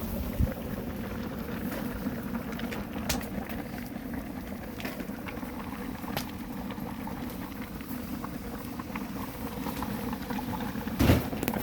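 A pot of kimchi stew bubbling at a steady boil, with a few sharp clicks and a louder knock near the end.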